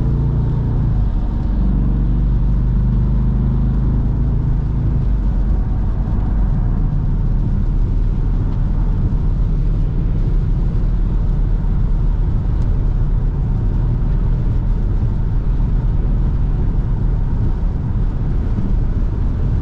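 Jeep Grand Cherokee SRT's V8 with a mid-muffler delete, a steady low exhaust drone while driving along. The engine note stands out more clearly for the first few seconds before settling into an even rumble.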